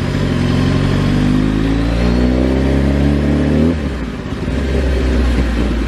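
A vehicle engine accelerating, its pitch rising steadily for about three and a half seconds, then cutting off abruptly. After a brief dip, a lower, steady engine note takes over.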